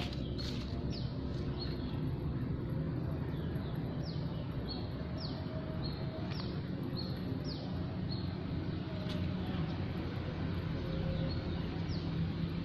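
A bird repeating a short, high, falling call about twice a second, stopping after about eight seconds and calling once more near the end, over a steady low outdoor rumble.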